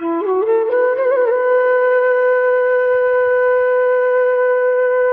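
Music: a single wind-instrument note that climbs in a few quick steps, wavers briefly about a second in, then holds one steady pitch.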